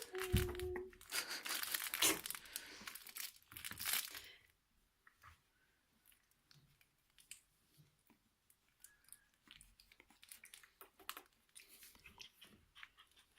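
Crinkling, rustling noise, like paper or bedding being moved about, for the first four seconds or so, then much quieter with small scattered clicks and rustles. A brief high puppy whimper sounds right at the start.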